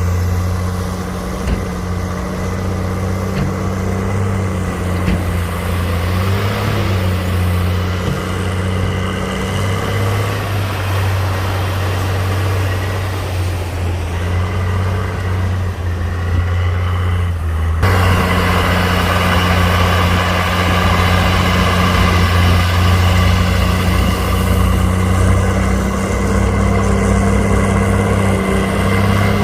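Heavy diesel engine of earthmoving machinery running steadily at a low, even pitch. Its sound changes abruptly about two-thirds of the way through and is somewhat louder after that.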